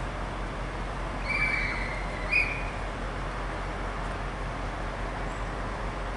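Class 175 diesel multiple unit running at the platform, a steady rumble. Two short high whistle notes cut through it, the second shorter and louder, about a second and a half and two and a half seconds in.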